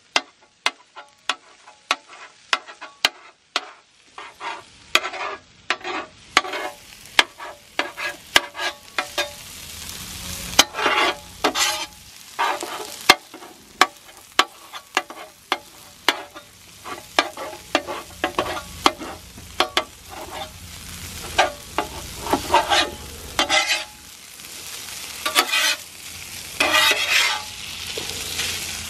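Cooking utensil scraping and clicking irregularly against a griddle while sausage and eggs fry, with a steady sizzle underneath.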